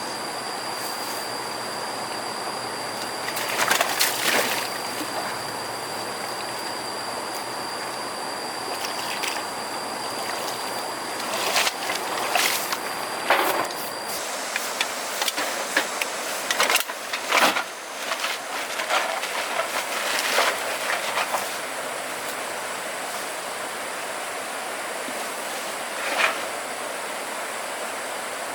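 Steady rush of flowing water, with scattered clatters and knocks, thickest in a cluster through the middle and one more near the end.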